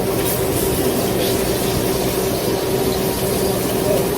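A fan running steadily, a constant whooshing with a low motor hum underneath.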